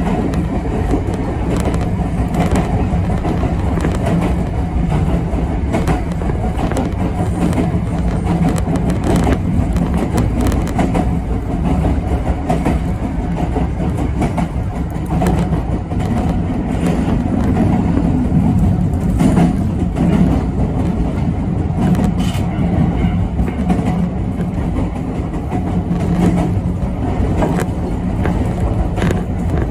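Yoro Railway 7700-series electric train running along the line, heard from on board: a steady rumble of wheels on rail with a low hum and occasional clicks over rail joints.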